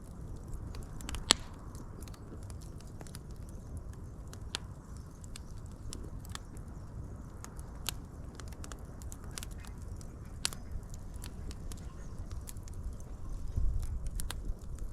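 Fire crackling, with scattered sharp pops over a low steady rumble; the loudest pop comes about a second in, another about ten seconds in.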